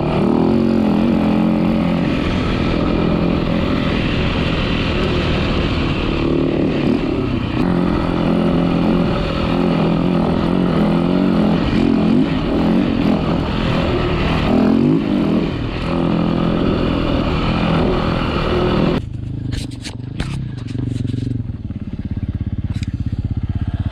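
Dirt bike engine running, its pitch rising and falling as it is ridden, then settling to a lower, quieter note about 19 seconds in.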